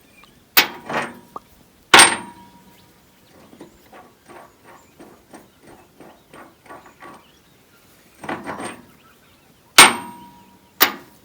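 Steel being struck with a hammer on dozer parts: about five loud metal clangs, the two loudest ringing on briefly, with lighter tapping in between.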